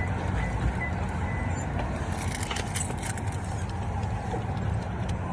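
Steady low rumble of a car running, with a few light jingling clicks about halfway through.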